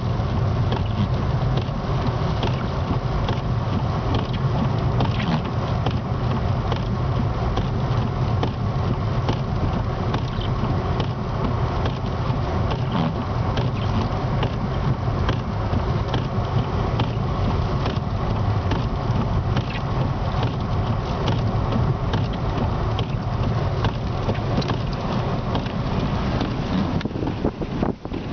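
Car driving, heard from inside the cabin: a steady low engine and road hum, with many small irregular ticks and clicks throughout.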